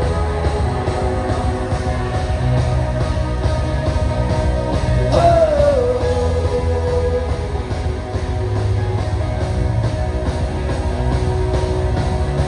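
Rock band playing live, with a heavy bass throughout. About five seconds in, a note bends downward and holds for a couple of seconds.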